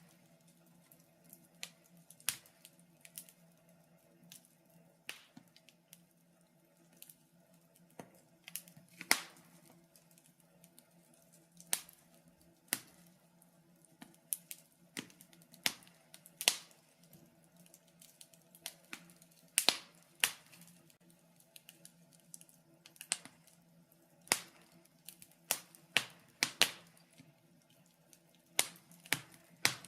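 Wood fire crackling in a fireplace: irregular sharp pops and snaps at uneven intervals, some much louder than others, over a faint steady low hum.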